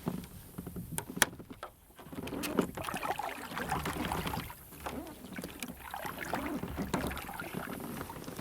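Kayak paddle strokes swishing and splashing through the water in two long runs, with a few sharp knocks, the loudest about a second in.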